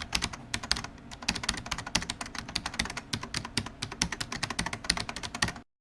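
Rapid, irregular typing on a computer keyboard, a dense run of sharp key clicks that stops abruptly near the end.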